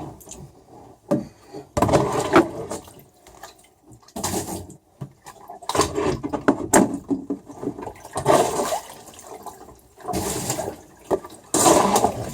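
Rainwater being sopped up with a sponge and wrung out into a bucket while bailing a boat: splashing and trickling water in irregular bursts every second or two.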